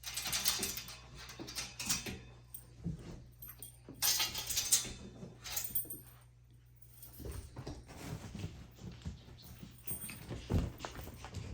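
Pet monkey making noises amid rustling and handling: a few noisy bursts in the first half, the loudest about four seconds in, then soft low knocks near the end.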